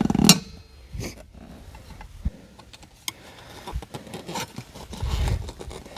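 Hand work on a tractor tire and rim: scattered metal clinks, knocks and scrapes, with a sharp knock right at the start.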